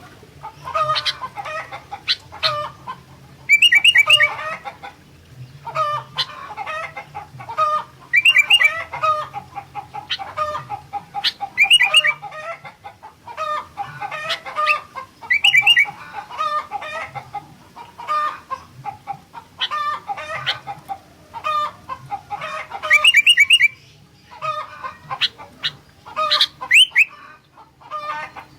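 A sooty-headed bulbul (kutilang) sings continuously in repeated phrases of quick, clear notes. A loud trill comes back about every four seconds. A faint low hum runs underneath.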